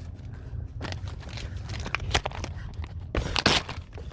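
Handling noises: scattered clicks, crackles and short knocks, with a louder cluster of knocks about three and a half seconds in, over a steady low rumble.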